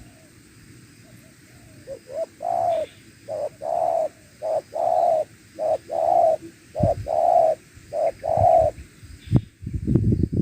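Spotted dove cooing: a phrase of short coos building into a run of longer, evenly spaced coo notes. Low scuffing noise comes in near the end.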